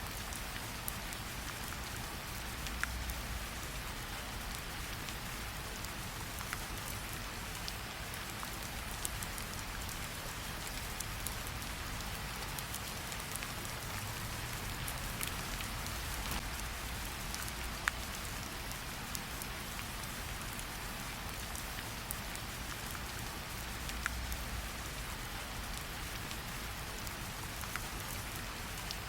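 Steady rain hissing, with occasional sharp pops, about one every two or three seconds, from a crackling campfire.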